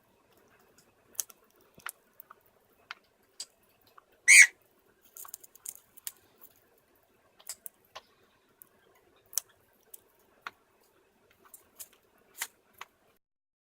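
Cockatiel eating oat groats: scattered small clicks of its beak working the grains, and one short, loud squeak about four seconds in.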